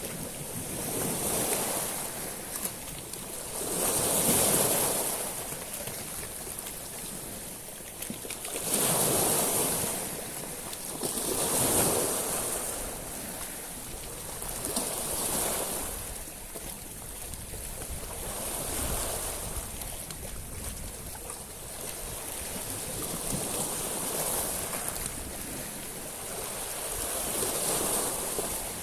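Sea waves breaking and washing over a shingle beach of small stones, surging in and drawing back every few seconds with a hissing rush; the largest swells come about four, nine and twelve seconds in.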